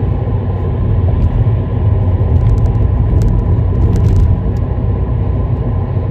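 Steady low rumble of a moving vehicle, with a few faint clicks about halfway through.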